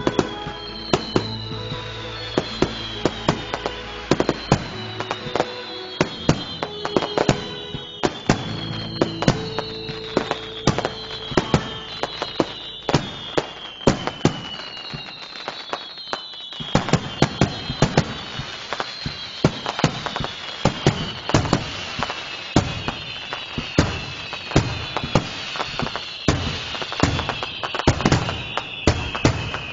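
Fireworks going off in rapid succession: many sharp bangs and crackles, with repeated whistles that fall in pitch. Background music plays under them through about the first half.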